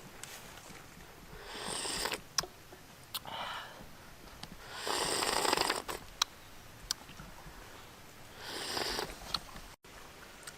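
Person eating soup: four breathy slurps, the loudest about five seconds in, with several small sharp clicks between them.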